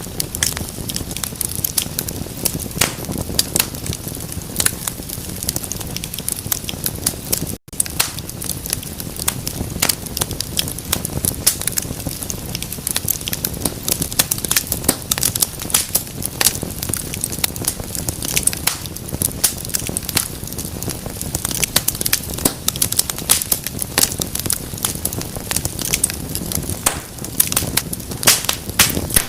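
Wood fire in a fireplace crackling, with many irregular sharp pops and snaps over a steady low rumble of flame. The sound drops out for an instant about a third of the way through.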